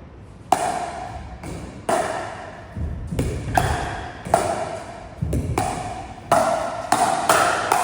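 Pickleball paddles hitting the ball back and forth in a quick drill rally: about ten sharp pops, each ringing briefly.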